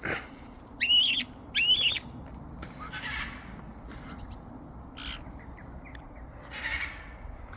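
Parrots calling: two loud, warbling squawks in the first two seconds, then only fainter, scattered sounds.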